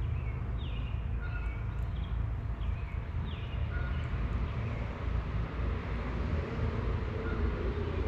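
A songbird repeating short whistled notes, some slurring downward, over a steady low outdoor rumble that is the loudest sound throughout.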